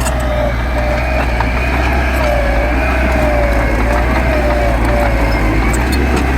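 Heavy diesel engine of an earthmoving machine running steadily under load, with a high whine that wavers in pitch over it.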